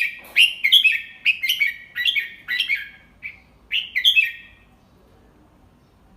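Red-whiskered bulbul singing a quick run of short whistled phrases, the 'double-three' song of a tutor bird used to teach young bulbuls. The song stops about four and a half seconds in.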